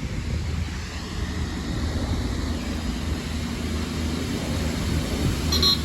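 A train passing close by: a steady rumble with no speech over it. Near the end comes a brief high squeal.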